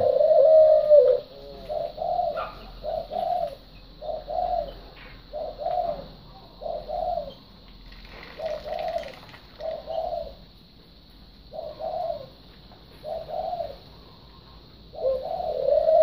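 A bird calling over and over: pairs of short, arched notes about every second and a half, with a longer drawn-out call at the start and another near the end.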